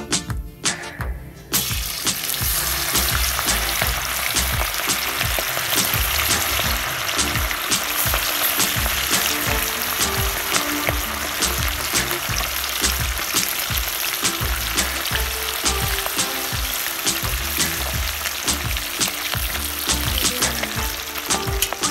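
Chicken pieces frying in hot oil: a steady sizzle with frequent sharp crackles and pops that starts about a second and a half in.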